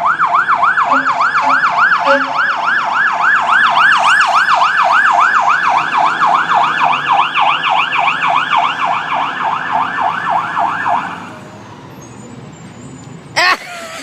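Fire engine siren on its yelp setting: a fast rising-and-falling wail, about four sweeps a second, that cuts off about eleven seconds in, leaving a low traffic hum.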